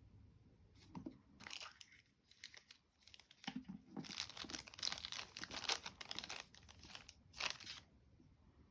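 Packaging being crinkled and torn open by hand, a run of short rustles and rips that starts about a second in and stops shortly before the end.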